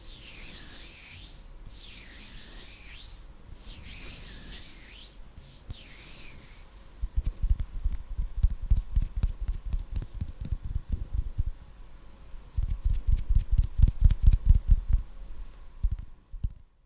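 Hands rubbing together close to the microphone in slow swishing strokes, about one every second and a half. About seven seconds in this gives way to rapid, low, muffled patting from the hands against or near the microphone, in two runs separated by a short pause.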